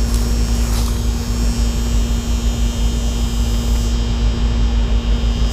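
Williamson heat pump outdoor unit running, a steady compressor hum with a low rumble underneath.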